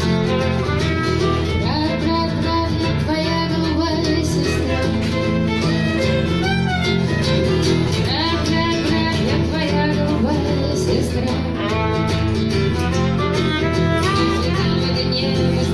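Violin playing a melodic instrumental break with slides between notes over a steadily strummed acoustic guitar.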